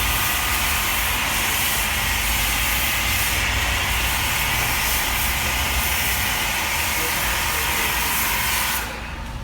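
High-pressure washer spraying a motorbike: a steady hiss with a low hum underneath, cutting off suddenly near the end.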